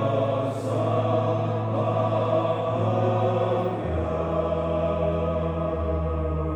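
A church choir singing long held chords, the bass note shifting to a new chord a couple of times.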